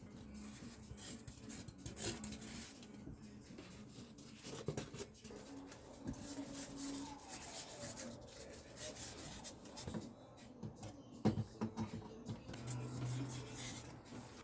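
Irregular rubbing and scraping on polystyrene foam, with a few sharp knocks, the loudest about eleven seconds in.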